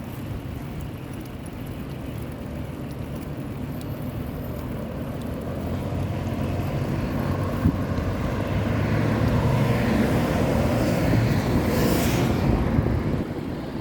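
Road traffic heard from a moving bike: a motor vehicle's rumble builds louder and then passes close by with a rush near the end, over steady riding noise.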